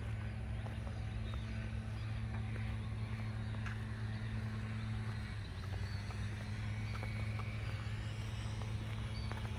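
Footsteps on a path, heard as scattered light taps, over a steady low engine-like hum that drops slightly in pitch about five seconds in.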